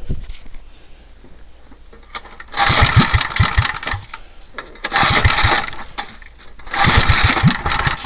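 Small engine of a Bonanza minibike being pull-started three times, about two seconds apart: each pull gives a short burst of sputtering and rattling that dies away without the engine catching.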